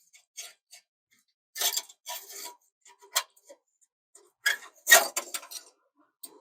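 Metal hand tools clicking and clinking on an exhaust pipe clamp as it is undone: irregular sharp clicks, with a louder cluster of clatter about five seconds in.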